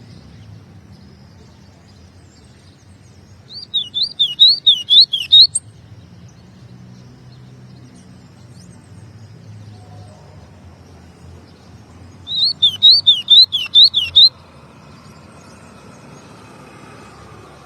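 Golinha (white-throated seedeater) singing two phrases of rapid, repeated up-and-down whistled notes, one a few seconds in and one about two-thirds of the way through, with a faint low hum between them.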